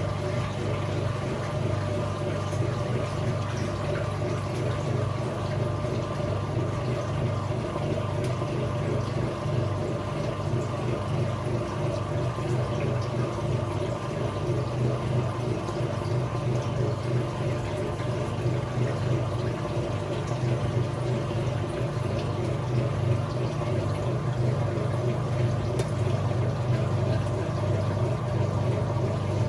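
Whirlpool top-loading washing machine running with water moving through it: a steady low motor or pump hum under the sound of water.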